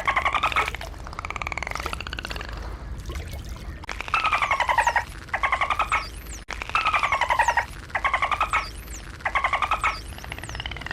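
Dolphins making rapid pulsed squawks: about half a dozen buzzy bursts, each under a second and dropping slightly in pitch, with a few faint high whistles among them.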